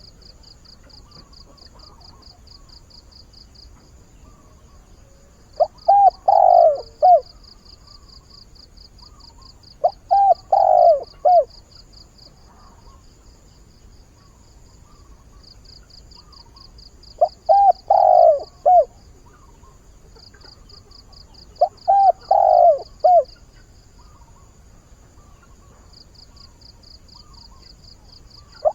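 Decoy spotted dove cooing to call in wild doves: four phrases of a few notes each, several seconds apart. Behind it runs a faint, high, rapid pulsing trill that stops and starts.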